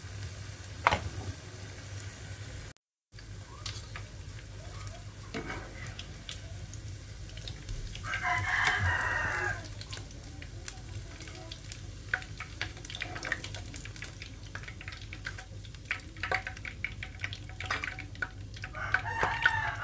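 Corn fritters sizzling in a wok of hot oil, with the clink of a slotted metal spatula against the pan as they are turned and lifted out. A rooster crows about eight seconds in, the loudest sound, and again near the end.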